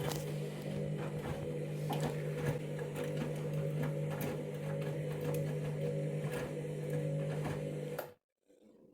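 Candy Grand'O Vita washing machine's drum motor turning the drum while the machine weighs a small load, a steady hum with light ticks and knocks. It cuts off suddenly about eight seconds in.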